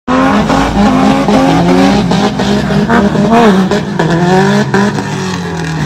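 Car engine revving hard, its pitch rising and dropping again in quick repeated pulls, over loud road and tyre noise.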